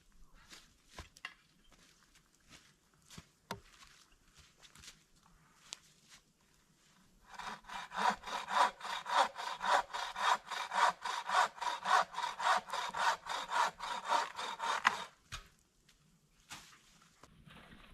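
A hand saw cutting through wood in quick, even back-and-forth strokes, about three a second. The sawing starts about seven seconds in and stops about eight seconds later, after a few light knocks and taps.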